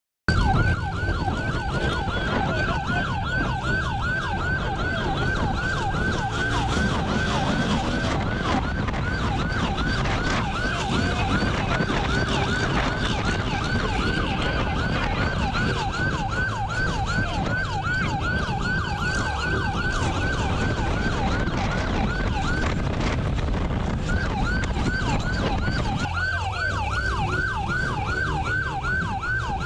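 Police siren on a fast yelp, about three falling sweeps a second, over the steady rumble of a moving vehicle.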